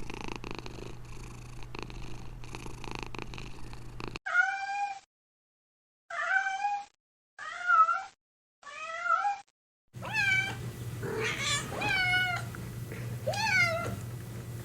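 Cats meowing in a string of short, high-pitched meows, each rising then falling in pitch: four separate ones from about four seconds in, then about five more in quick succession near the end. They are preceded by a few seconds of steady low rumbling noise.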